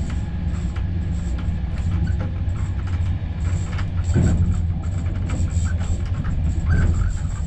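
Passenger train running, heard from inside the coach: a steady low rumble of wheels on rail with scattered clicks and knocks, and a short falling squeal about four seconds in.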